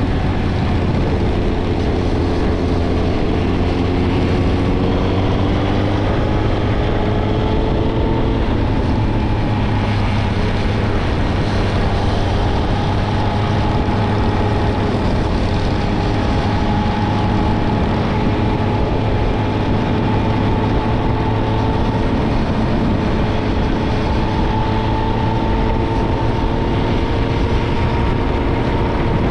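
Suzuki GSX-R1000 inline-four running through a Yoshimura Alpha exhaust under gentle acceleration. The pitch climbs for several seconds, drops suddenly about eight seconds in at an upshift, then rises slowly again.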